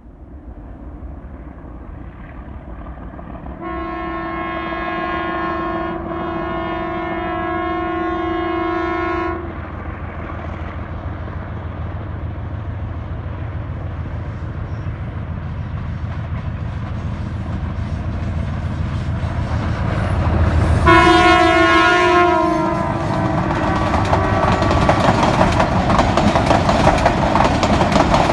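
Hitachi PHA-20 diesel locomotive hauling a passenger train as it approaches and passes. A long, steady horn blast of about five seconds comes a few seconds in, over a growing engine rumble, and a second, shorter horn blast sounds about 21 seconds in. Near the end the coaches' wheels clatter over the rails.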